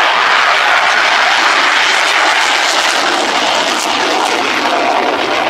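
Loud, steady engine roar of a fixed-wing aircraft flying past at an airshow, easing slightly near the end.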